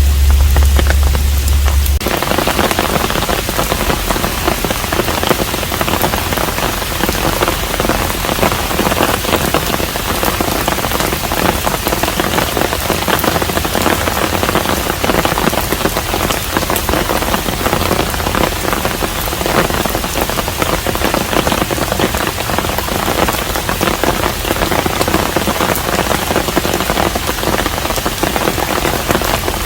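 Steady rain falling on a hanok, a dense patter of drops. A low rumble underneath cuts off about two seconds in.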